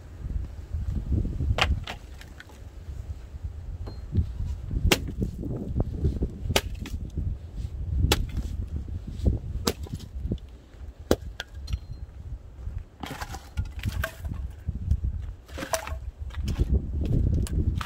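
Scrap wood pieces being broken up and handled as kindling: irregular sharp cracks and knocks of wood, in quick clusters about thirteen and sixteen seconds in.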